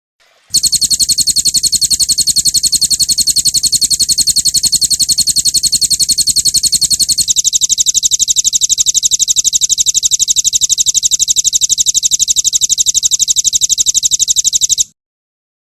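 Recorded songbird 'roll tembak' song: one high note repeated very fast and evenly in a long rapid-fire trill, shifting slightly in tone about halfway, then cutting off abruptly.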